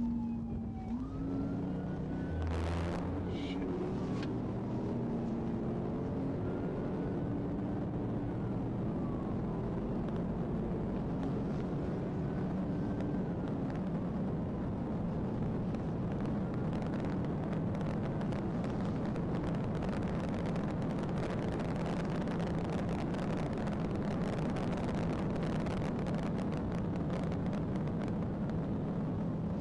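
Police pursuit car running flat out at high speed: steady engine and road noise, with a siren wailing faintly in slow rises and falls. A few short knocks come about three seconds in.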